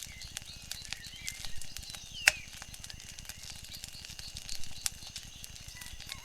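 Wood fire crackling, with irregular sharp pops and snaps and one louder pop a little over two seconds in.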